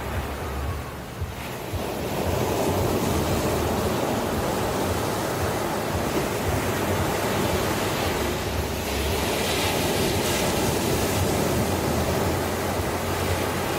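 Ocean surf: waves rushing and washing in a continuous noisy roar with a deep rumble underneath, swelling louder about two seconds in.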